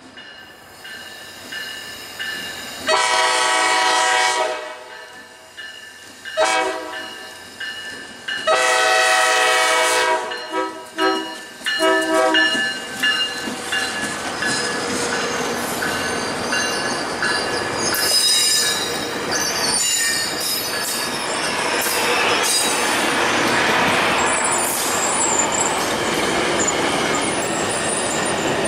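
Tri-Rail commuter train's horn sounding a series of blasts as it nears a grade crossing, a long one about 3 seconds in, then a shorter one, another long one and a last broken one. From about halfway through, the train passes close by: steady rumble and clatter of wheels on the rails, with high-pitched wheel squeal.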